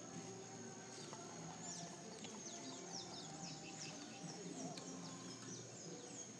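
Birds chirping: a run of quick, falling high chirps from about two to five seconds in, over a faint, steady high-pitched whine.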